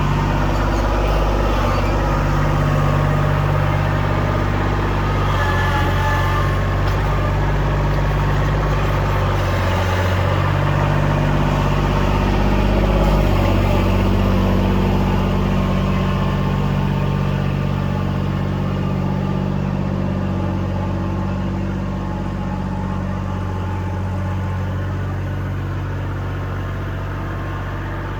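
Kubota L2501 tractor's three-cylinder diesel engine running steadily, its pitch shifting a little a few times and the sound easing off slightly in the second half.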